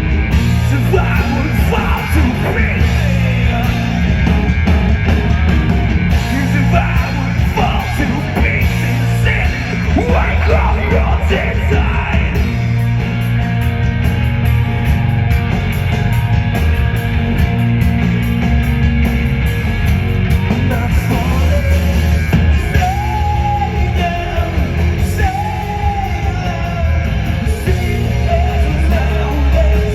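Live rock band playing loud, with drums, guitars and a singer's sung and shouted vocals over the top.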